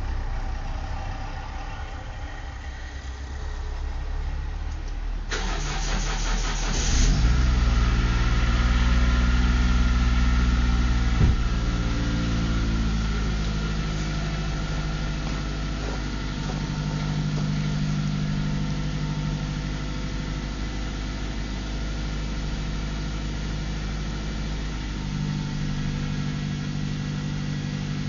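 Toyota Corolla Verso (first series) engine cold-started at −12 °C after standing five days. The starter cranks for about two seconds, starting about five seconds in, and the engine catches. It runs loudest just after catching, then settles into a steady idle.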